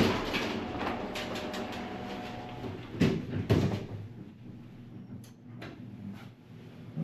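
Hotel elevator doors sliding and knocking, with two thumps about three seconds in, then quieter.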